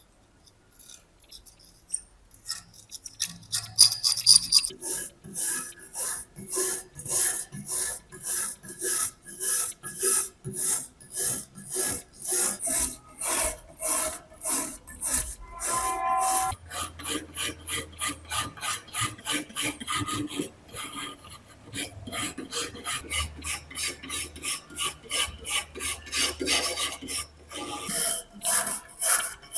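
Hand rubbing or filing strokes on the rusty knife's metal, back and forth at about two strokes a second, starting a few seconds in after a quiet start.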